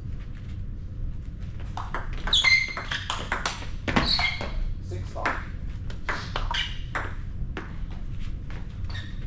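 Table tennis rally: the celluloid ball clicking and pinging off bats and table in a quick, irregular run of sharp knocks, the loudest around two and a half and four seconds in.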